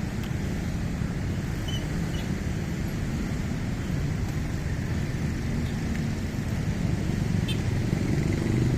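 Steady road traffic: the continuous hum of passing vehicle engines and tyres, with no single vehicle standing out.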